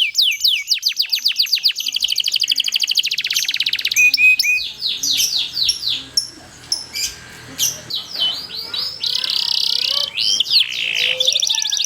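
Domestic canary singing a long rolling song: runs of quick, repeated high falling notes that speed up into a fast trill, then varied chirps and a buzzy trill near the end.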